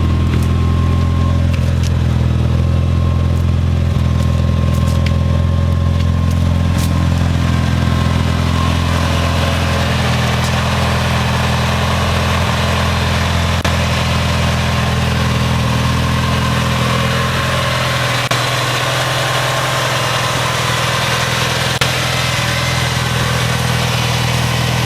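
An engine idling steadily, with a few light clicks in the first few seconds; its lowest note drops away about three-quarters of the way through.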